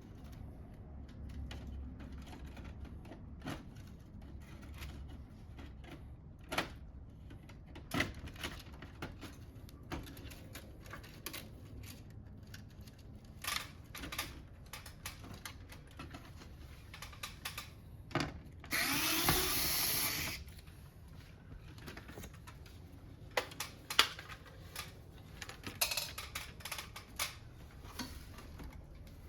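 Parts of a Fujitsu Nocria air conditioner being taken apart: scattered clicks and knocks from its plastic parts being handled. A power screwdriver whirs for about two seconds just past the middle, its pitch rising as it spins up.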